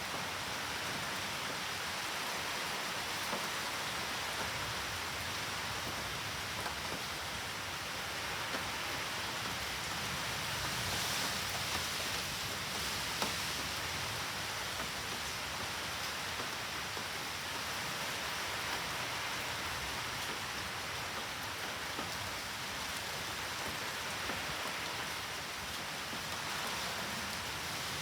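Steady rain falling during a typhoon, pattering on surfaces, with a few faint sharp drop ticks.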